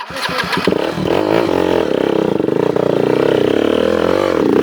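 Dirt bike engine revving hard and held at high revs for several seconds, its pitch wavering, after a few knocks at the start; it drops off just before the end.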